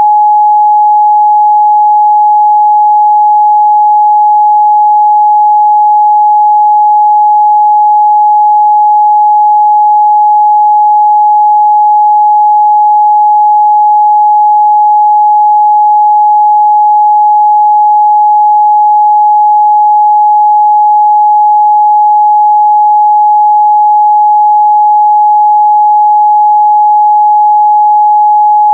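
A steady 841 Hz pure sine-wave test tone, one constant mid-range pitch at unchanging loudness, used to check the frequency response of speakers and headphones.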